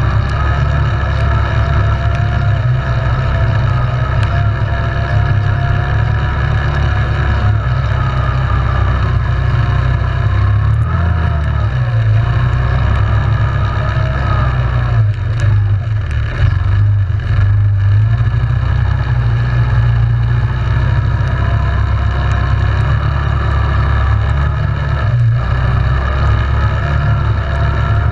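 Yamaha Grizzly 700 ATV engine running under way, its pitch rising and falling with the throttle. There is heavy low rumble from wind or terrain, and a brief easing off about halfway through.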